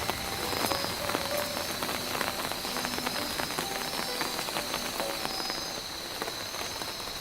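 Rain falling, a dense irregular patter of many small drops hitting a surface.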